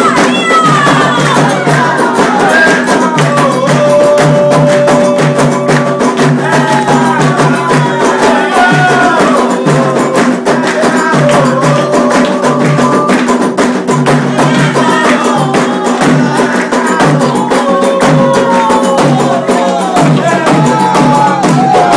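Candomblé ritual music: voices singing a call-and-response-style chant over steady, fast drum and percussion strikes.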